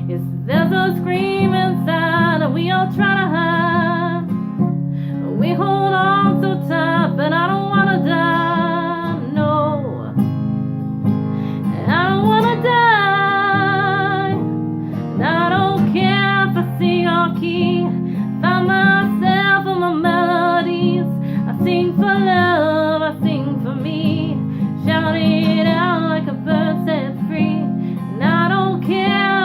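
Acoustic guitar strumming chords under a woman singing long melodic phrases with a wavering vibrato.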